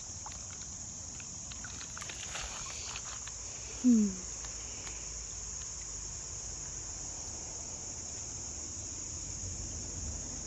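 Steady, high-pitched chorus of crickets and other insects. About four seconds in comes one short, louder falling hum.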